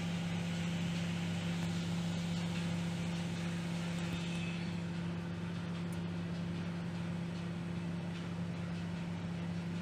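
Microwave oven running with a steady electrical hum and fan noise.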